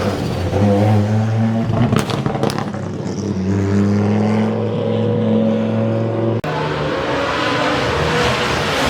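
Rally car engine running hard at high revs, holding a steady note with a few sharp cracks about two seconds in. About six and a half seconds in it cuts abruptly to a noisier, hissing engine sound.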